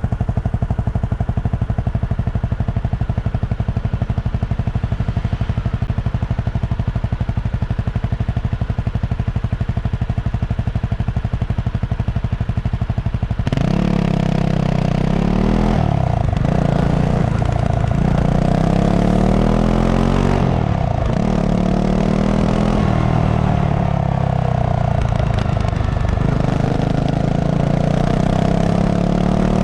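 Honda CRF250 Rally's single-cylinder four-stroke engine through its stock exhaust, running steadily at a low, even beat. About halfway in it gets louder and its pitch rises and falls several times as it is revved.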